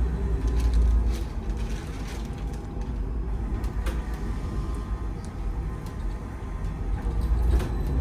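Ride noise inside a VMZ Avangard trolleybus under way: a steady low rumble from the running gear and road, with scattered rattles and clicks from the body.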